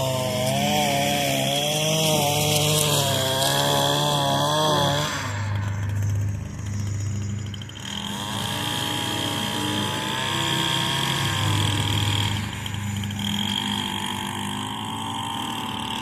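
Echo SRM 225 two-stroke string trimmer running, its engine note wavering up and down, dropping back about five seconds in and picking up again a few seconds later. A riding mower engine runs steadily underneath.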